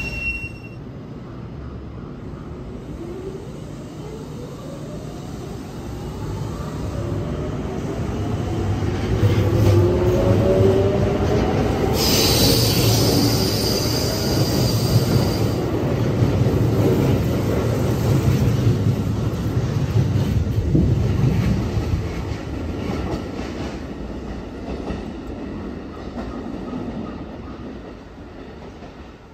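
Kintetsu electric commuter train running along the platform. Its motor whine slides in pitch over steady wheel rumble and squeal, with a hiss of about three seconds roughly 12 seconds in. It builds to its loudest in the middle and fades away near the end.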